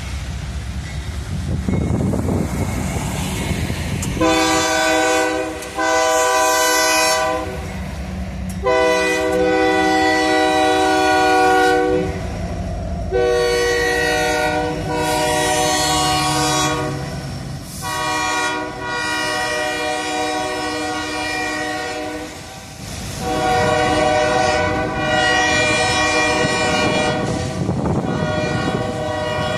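Ferromex freight locomotive's multi-chime air horn sounding a series of about six blasts starting about four seconds in, two short ones followed by longer ones, over the low rumble of the passing train.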